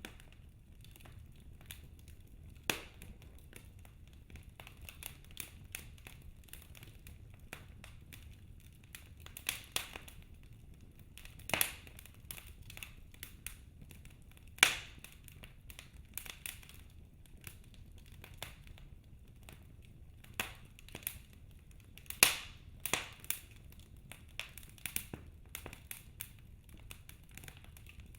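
Wood fire burning in a fireplace: logs crackling with irregular sharp pops, a few of them louder, over a faint steady low hiss.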